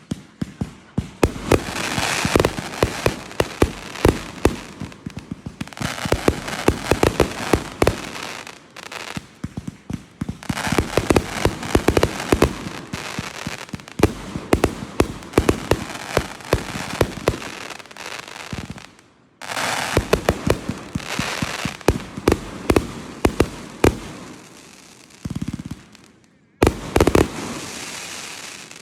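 Fireworks display going off: a dense barrage of sharp bangs and crackles, many per second. It briefly thins out twice, about two-thirds of the way in and near the end, then comes back abruptly.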